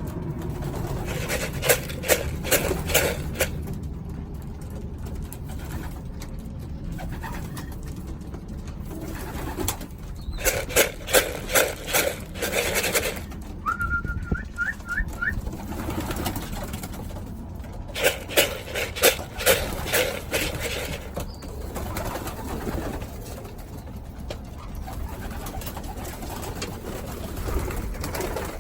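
Racing pigeons cooing in three bursts of quick pulsing calls, with a short run of higher rising chirps in the middle, over a steady low rumble.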